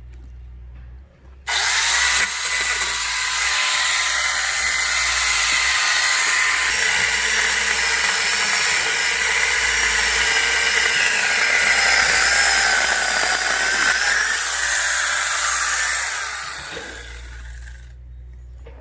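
Angle grinder converted into an electric chainsaw with a bar-and-chain kit, starting suddenly and cutting through a log. It runs as a loud, steady high whine whose pitch sags slightly under load, then winds down near the end.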